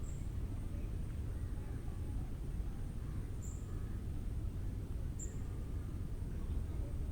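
Forest ambience after rain: a steady low rumble under a thin, steady high-pitched hum, with three short, high bird chirps (about the start, after three and a half seconds, and after five seconds) and faint distant bird calls.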